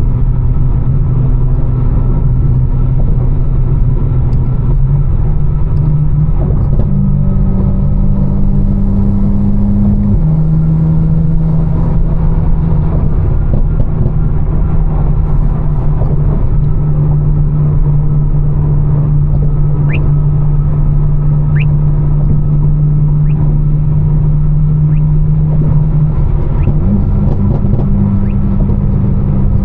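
Tuned, catless BMW M4 Competition's twin-turbo inline-six droning steadily on the road, its pitch stepping up and down a few times with changes in speed or gear.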